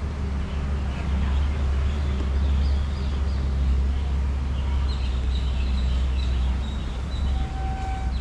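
Low, steady rumble of a large idling engine, with faint chirps high above it.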